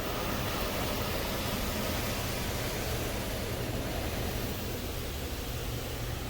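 Coleman Hanna Fusion X in-bay automatic car wash running: a steady, even rushing hiss with a low hum underneath.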